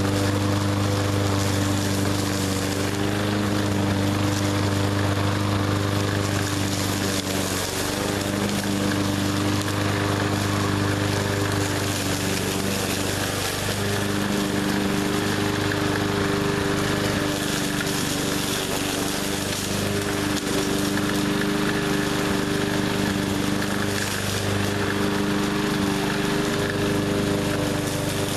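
A 20-inch push mower's small engine runs steadily at a constant speed with an even hum.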